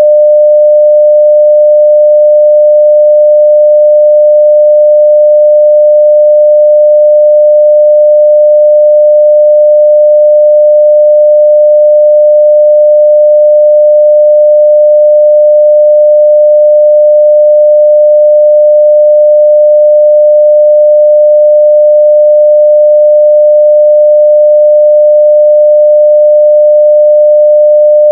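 Continuous 600 Hz sine test tone at full level, a single steady pure pitch with no change.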